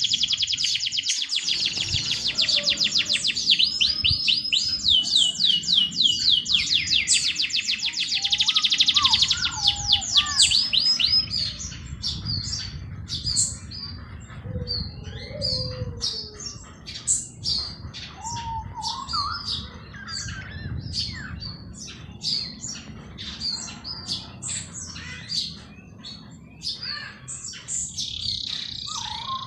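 Songbirds chirping: a dense, fast run of high chirps for about the first eleven seconds, then scattered separate chirps and calls, over a faint low steady rush.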